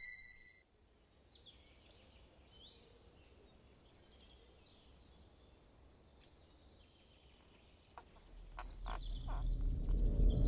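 Faint birdsong: several birds chirping and whistling over a soft background hiss. About eight seconds in, a few short knocks sound and a low swelling rumble starts to build.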